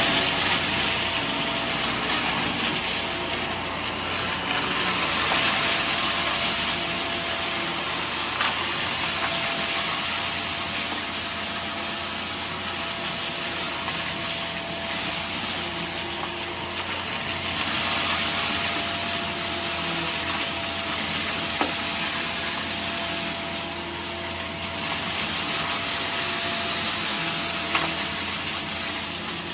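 Vacuum cleaner running steadily with a constant whine, its noise swelling and fading every few seconds as it is pushed back and forth. A few faint sharp clicks come through.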